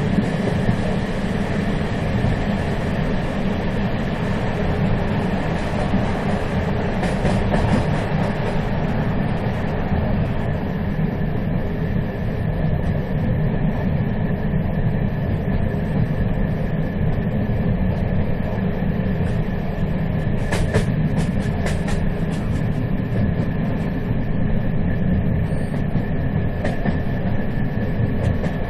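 Moving train running steadily: continuous rumble of wheels on rail with a faint steady tone above it, and a few sharp clicks about a quarter of the way in and again past the two-thirds mark.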